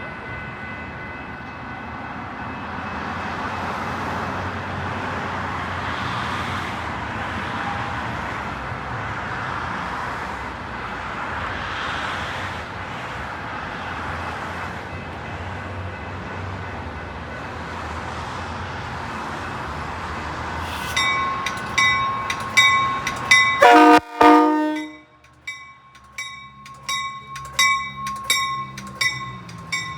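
Metra commuter train running past on the tracks, a steady rush of wheel and train noise. Near the end, a rapid regular ringing like a railroad crossing bell starts, and soon after comes one short, loud horn blast.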